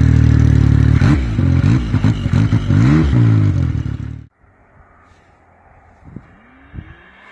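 Yamaha Sidewinder turbocharged three-cylinder snowmobile engine running, then revved several times, with the exhaust cutout valve just commanded closed so the exhaust goes through the muffler. The sound cuts off suddenly a little over four seconds in, leaving faint background noise.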